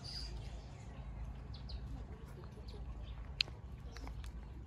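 Scattered short bird chirps over a steady low rumble, with one sharper, louder chirp about three and a half seconds in.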